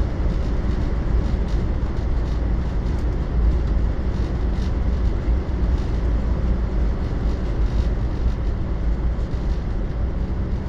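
Cabin running noise of a 500 series Shinkansen in motion: a steady, even noise of wheels on rail and rushing air, heaviest in the low end.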